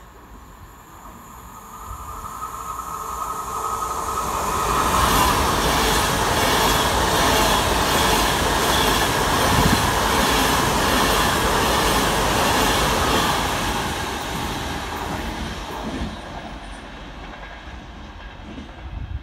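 Avanti West Coast Class 390 Pendolino electric train passing through the station: the rush of wheels on rail builds over a few seconds, stays loud for about eight seconds with a fast run of wheel clicks, then fades as it draws away.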